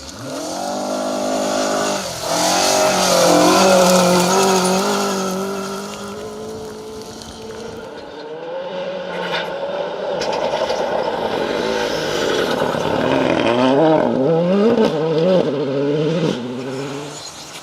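Rally car engines at high revs on a special stage. One car's engine rises to a peak about three to four seconds in and fades. Later the engine pitch swings rapidly up and down, gear change after gear change and lift after lift.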